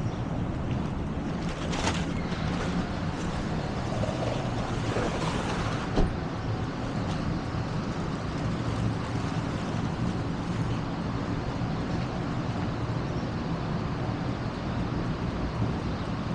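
Steady engine and road rumble of a car being driven, with a single sharp knock about six seconds in.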